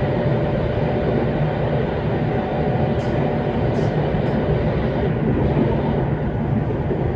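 JR West 227 series electric train running, heard from inside the car: a steady low rumble of wheels and running gear, with a few faint short ticks about three to four seconds in.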